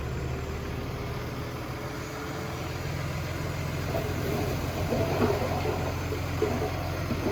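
Diesel engine of heavy earthmoving machinery running steadily, with scattered clanks and rattles in the second half.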